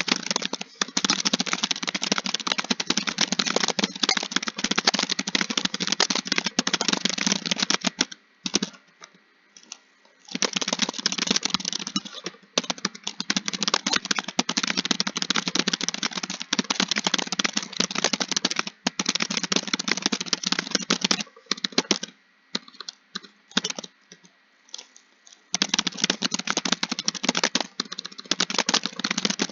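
Fast typing on a computer keyboard: continuous runs of keystrokes broken by a pause about eight seconds in and by a stretch of scattered single key presses a little past the middle, then steady fast typing again near the end.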